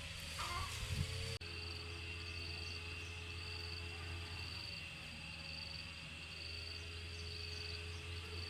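Insects chirping in a high, pulsing trill over a low steady hum.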